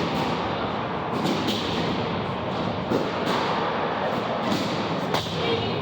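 Ice hockey game noise in a rink: a steady din broken by several sharp knocks and thuds, typical of stick, puck and boards.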